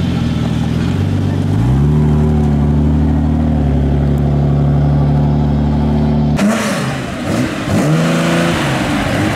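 Car engine pulling away: its note steps up about a second and a half in and holds at steady revs. After an abrupt cut, the engine of a classic Nissan Skyline sedan revs in several quick blips, rising and falling.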